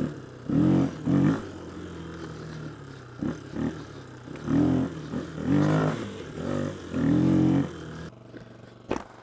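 Honda XR250R's air-cooled single-cylinder four-stroke engine being ridden along a dirt trail, running steadily with repeated rises and falls in revs as the throttle is opened and rolled off. About eight seconds in, the engine sound drops away.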